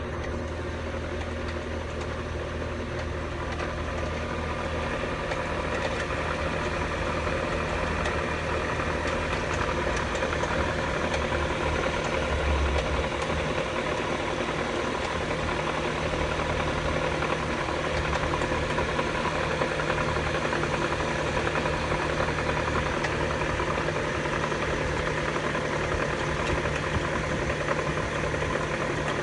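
Hyundai Sonata YF engine idling steadily with an extraneous noise in its running, which the owner takes for abnormal.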